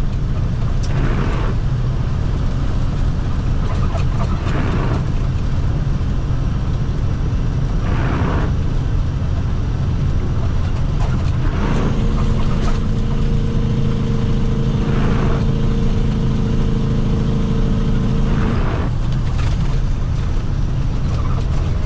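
Water truck's diesel engine and road noise heard inside the cab while driving in the rain, a steady low rumble. Windshield wipers swish across about every three and a half seconds, and a steadier hum joins for about six seconds in the middle.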